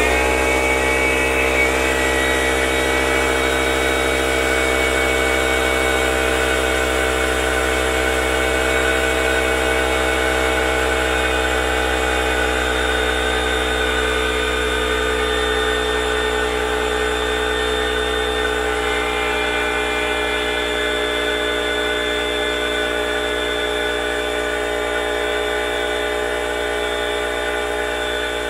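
Tagred TA375 oil-free twin-piston air compressor switching on and spinning up to speed, then running steadily with a loud, even hum, filling its tank.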